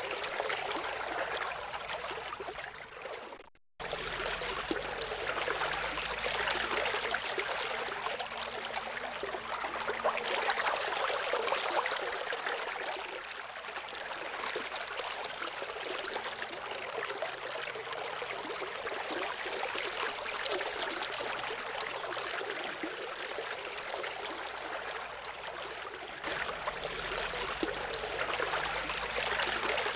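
A steady rushing, water-like noise, with no tone or beat. It drops away briefly about three and a half seconds in, then comes back suddenly.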